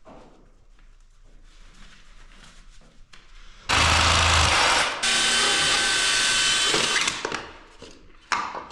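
A power tool runs hard in two bursts from about halfway in, with a short break between them; the second burst carries a steady motor whine. Before it there is only light handling noise.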